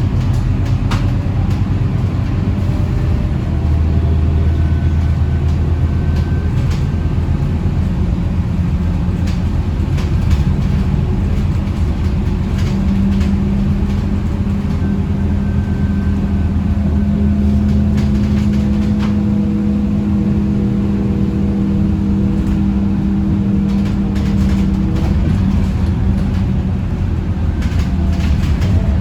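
Scania K230UB Euro 5 bus heard from inside while driving: a steady low engine and drivetrain drone whose pitch drifts slowly up and down, with occasional light rattles and clicks from the bus.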